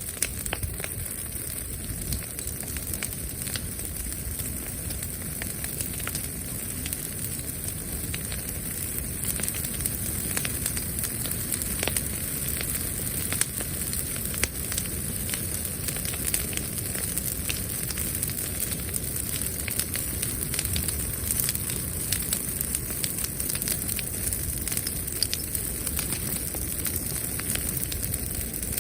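Wood bonfire crackling and popping, with many small sharp snaps over a steady hiss and rush.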